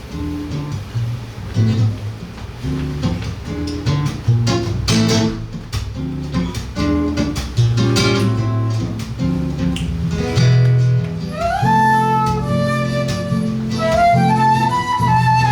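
Seven-string guitar playing rhythmic plucked chords. About eleven seconds in, a flute melody joins it, rising into its notes.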